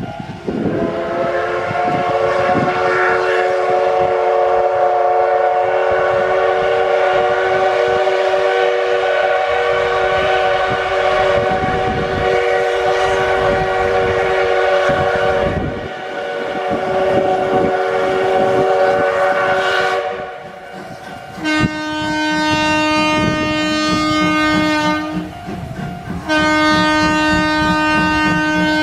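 Steam locomotive whistle blowing one long, wavering blast for about twenty seconds, then an electric train horn sounding two steady blasts of one pitch, the second cut off at the end.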